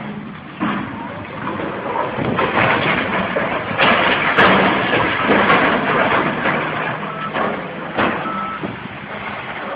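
A heavy machine working, a loud rough noise with a low engine hum underneath. Sharp knocks come about four seconds in and again near eight seconds, and two short beeps sound near the end.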